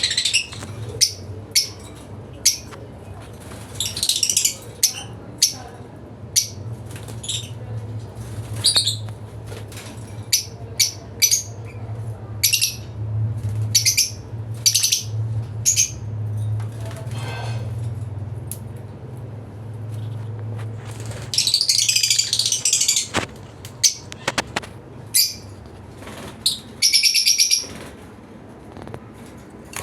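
Lovebirds chirping in many short, sharp calls, with a few denser bursts of chatter. A steady low hum runs underneath and stops about three-quarters of the way through.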